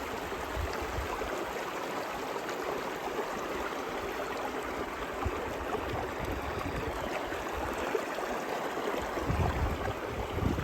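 Steady rush of a river running over rocks, with a low rumble coming in near the end.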